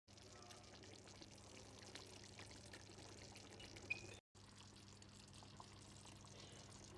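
Near silence: a faint low hum with a few light clicks, briefly cutting out about four seconds in.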